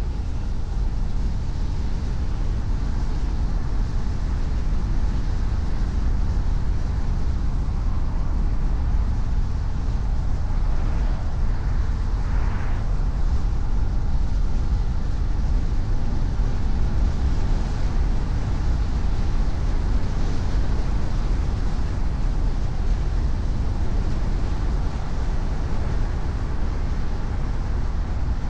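Car driving at a steady speed: a constant low rumble of engine and tyre road noise, with a brief rise in hiss about twelve seconds in.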